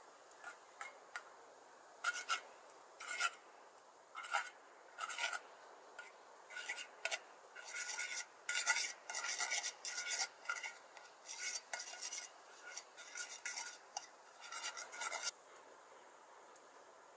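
Repeated rasping, scraping strokes, about one or two a second, starting about half a second in and stopping about two seconds before the end.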